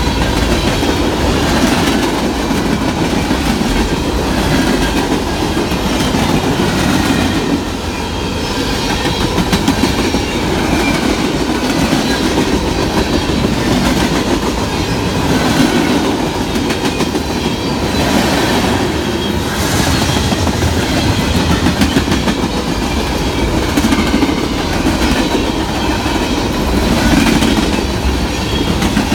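Freight cars of a CSX manifest train rolling past close by: a steady loud rumble of steel wheels on the rails, with the clickety-clack of the wheels passing over rail joints.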